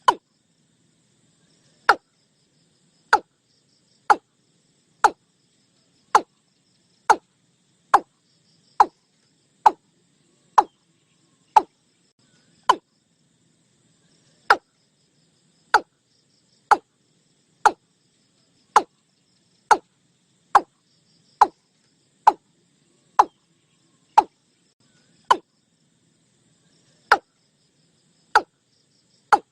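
Watercock (cúm núm) call recording: short, sharp single notes repeated about once a second at uneven intervals, with near silence between them.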